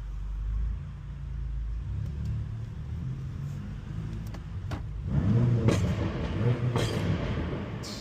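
Car engine running with a low rumble that swells into a louder, deeper run of engine sound about five seconds in, then eases off near the end.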